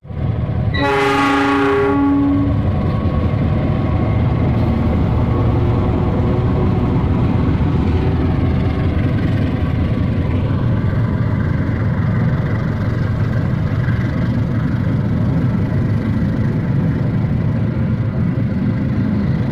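Diesel locomotive sounding its horn for about two seconds, two notes together with the higher one stopping first, then its engine running loudly as it pulls out.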